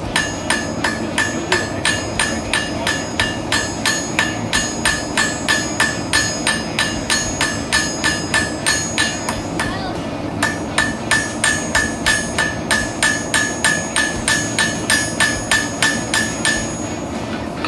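Hand hammer striking hot steel bar on an anvil in a steady rhythm, about three blows a second, each leaving a clear ringing note. The hammering stops briefly about halfway through, then resumes. It is the sound of hand-forging the steel, flaring out the ends of the cross arms. A steady rushing noise runs underneath.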